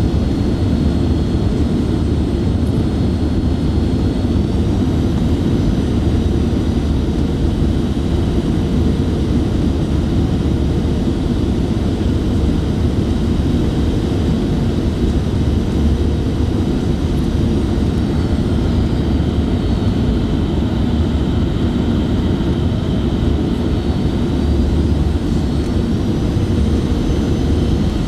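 Cabin noise of a jet airliner in flight: steady, loud, low noise from the engines and the air rushing past, with faint high tones that slowly drift in pitch.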